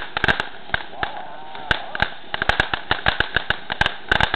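Fireworks crackling: a rapid, irregular stream of sharp pops and cracks. It thins out briefly about a second in, then grows dense again.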